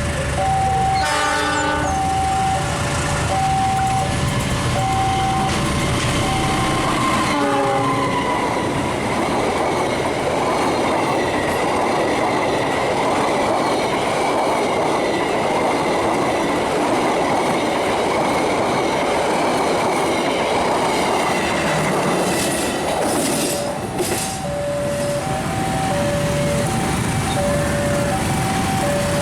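A passenger train passes through at speed: its horn sounds near the start and drops in pitch at about 7 seconds, then the wheels give a long steady rush on the rails. A two-tone level-crossing warning signal chimes before the train arrives and comes back near the end.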